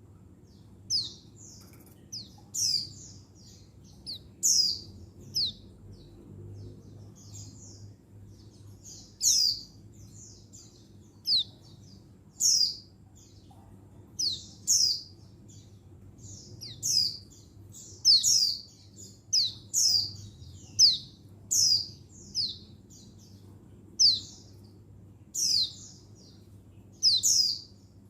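Female buxtoni white-eye (pleci) giving its contact call, a female call for drawing a male: short, high, sharp chirps that sweep downward in pitch, often in quick pairs, repeated about every one to two seconds.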